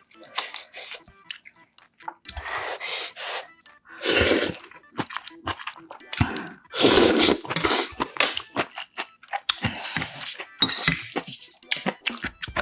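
Close-miked eating sounds of budae-jjigae and rice: chewing and wet mouth noises, with two longer, louder noisy stretches about four and seven seconds in.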